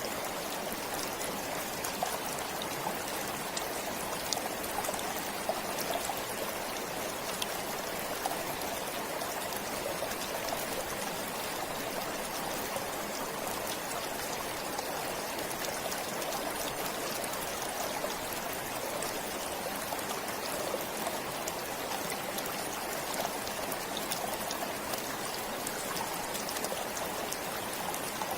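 A flowing stream running steadily over stones, with fine splashing and trickling.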